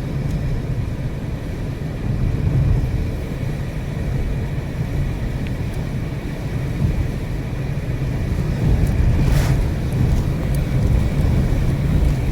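Steady low rumble of a car driving along a country road, heard from inside: engine and road noise, with a brief knock about nine seconds in.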